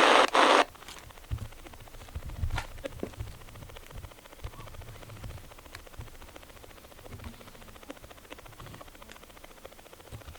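Spirit box radio scanning across stations: loud chopped static that cuts off abruptly under a second in. Then only faint clicks and low thumps of handling.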